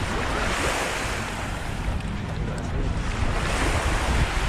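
Small waves washing up on a sandy beach, two surges of hiss, one about a second in and another past three seconds, with wind rumbling on the microphone.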